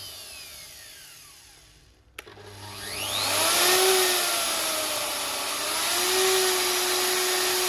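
Makita RP2300FC electric plunge router running with no load. It is winding down almost to a stop, there is a click about two seconds in, and then it spins back up with a rising whine. Its speed sags and climbs once more, then holds steady.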